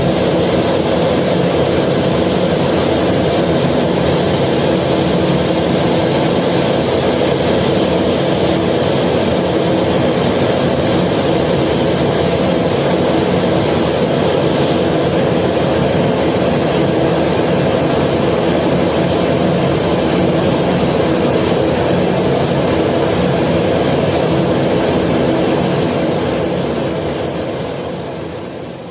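A ferry's engines running with a steady, loud drone and a constant layered hum, fading out near the end.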